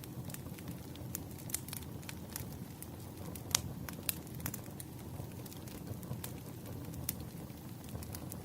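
Firewood burning: a steady low rumble with irregular sharp crackles and pops, the loudest pop about three and a half seconds in.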